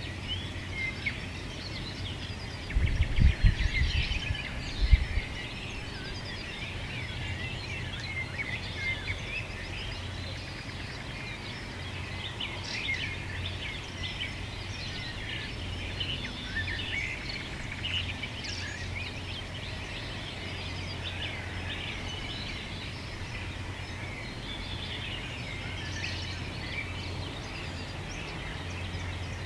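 Many small birds chirping and singing at once in a dense, continuous chorus over a steady low hum. A few loud low thuds come about three to five seconds in.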